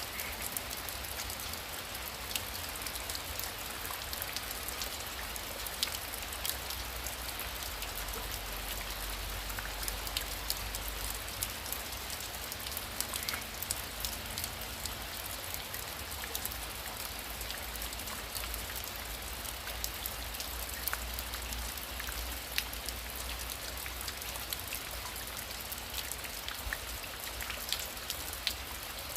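Heavy rain falling steadily: a dense, even hiss peppered with many sharp ticks of individual drops striking.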